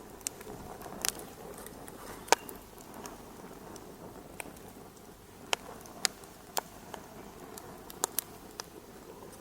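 Fireplace fire crackling: a steady low hiss with irregular sharp pops and snaps, the loudest about two seconds in.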